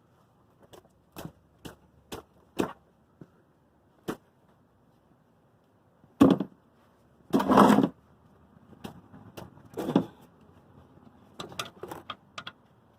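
A wrench working loose the 14 mm oil drain plug bolt under a car: scattered sharp metallic clicks and knocks, a few louder clanks and a short clatter in the middle, and a quick run of clicks near the end.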